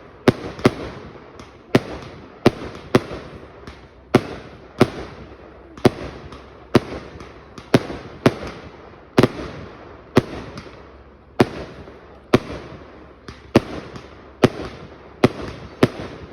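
Aerial fireworks going off in a rapid, irregular barrage of sharp bangs, roughly two a second. Each bang trails off in a short rumbling echo.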